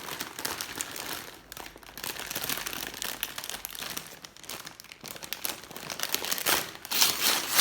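Gift wrapping being crumpled and torn as a birthday present is unwrapped: irregular crinkling and rustling, with a louder burst of crinkling near the end.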